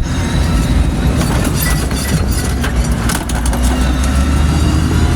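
Heavy vehicle engine running steadily, a low rumble with rattling and clatter over it.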